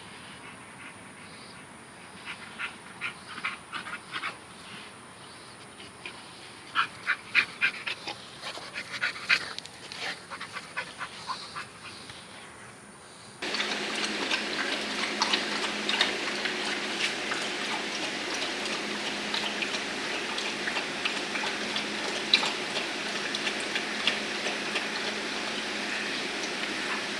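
Young dogs moving about, with scattered short clicks and rattles. About halfway through, a louder steady noise with a low hum abruptly takes over.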